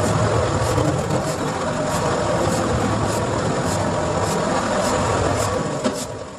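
Car engine running steadily under load, with a regular faint ticking about three times a second; it eases off shortly before the end.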